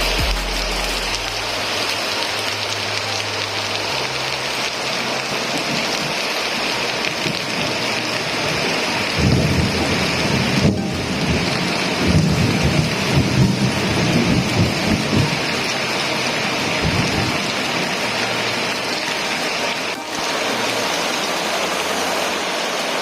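Steady heavy rain falling, with thunder rolling in a long low rumble from about nine to fifteen seconds in.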